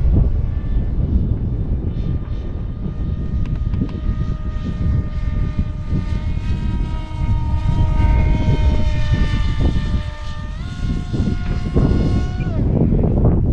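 Electric motor and pusher propeller of an RC jet whining in flight over heavy wind rumble on the microphone. The whine grows louder through the middle and steps up in pitch about ten and a half seconds in. It then drops and cuts off near the end.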